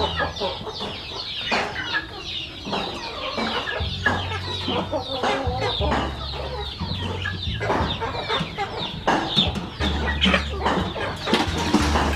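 A flock of chickens clucking and chirping, many short overlapping calls throughout, with a low rumble coming and going underneath.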